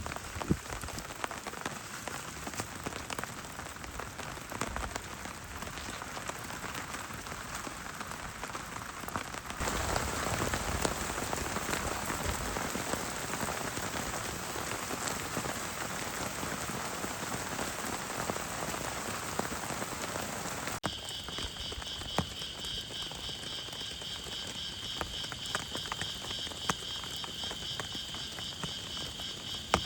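Heavy rain falling steadily, in a haze of patter that jumps abruptly louder about a third of the way in. About two-thirds of the way in the sound changes suddenly to lighter rain, joined by a steady high-pitched, pulsing animal chorus.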